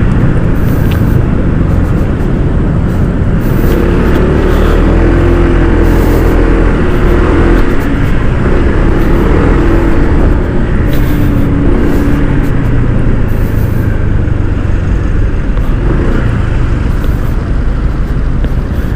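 Honda ADV160 scooter's single-cylinder engine running on the move, its note wavering up and down with speed, under heavy wind rumble on the rider's microphone.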